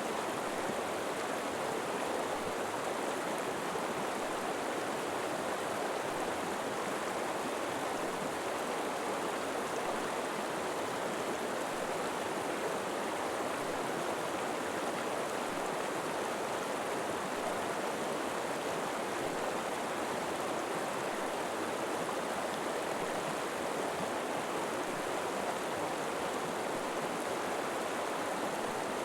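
River water flowing steadily in a winter river, an even rushing with no breaks.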